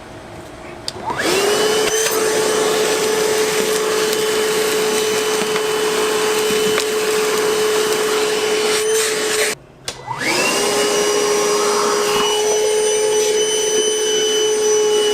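Milwaukee M18 cordless wet/dry vacuum switched on about a second in, its motor spinning up with a rising whine to a steady running pitch while it sucks up wood chips and dirt. The sound cuts out briefly about two-thirds of the way through, then the motor spins up again and runs steadily.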